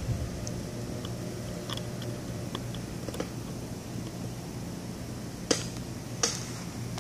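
Light clicks and knocks from the plastic cover and wiring of a mattress blower being handled and fitted back together, with two sharper clicks near the end, over a steady low hum.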